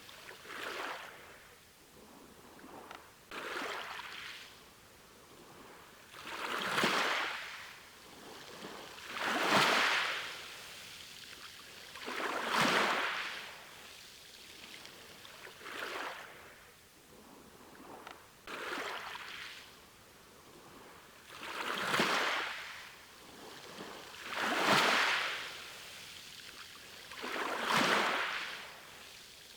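Sea waves breaking and washing on the shore, a rush of surf that swells and falls away about every three seconds, ten times over.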